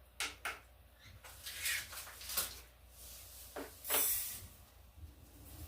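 Sodium hydroxide being measured out into a container on a scale: a few light clicks and knocks of the container and scoop, and a brief rustling hiss of the lye being poured, around four seconds in.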